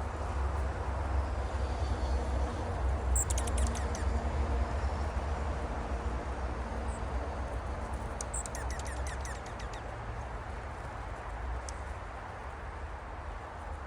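Small wild birds giving short, high-pitched chirps and quick twittering trills in two clusters, about three seconds in and again around eight to nine seconds in, over a steady low rumble.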